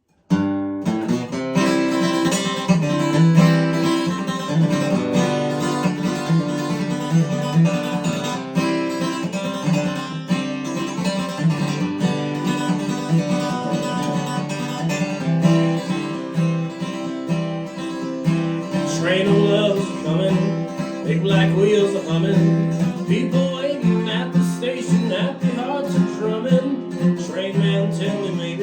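Acoustic guitar strummed in a steady rhythm, playing a country song's intro. A wavering melody line joins the chords about two-thirds of the way through.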